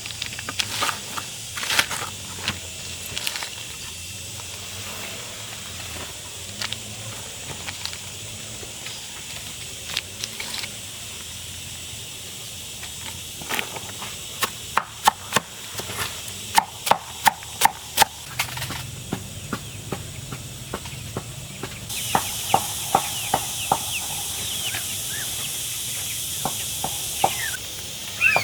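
A knife chopping banana plant stems on a wooden block for chicken and duck feed, in sharp irregular strokes that quicken to a run of about two or three a second midway. A steady high hiss joins in late on and then cuts off.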